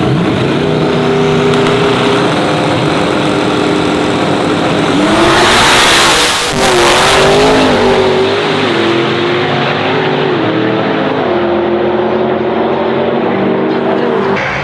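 Two drag-racing cars at full throttle: engine notes climb at the start and step through the gears, with the loudest rush as the cars pass, about five to seven seconds in.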